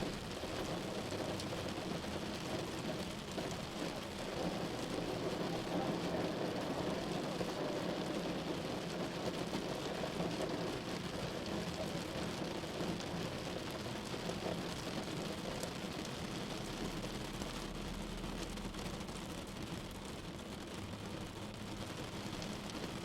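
Rain falling on a moving car, mixed with steady road and engine noise from the drive.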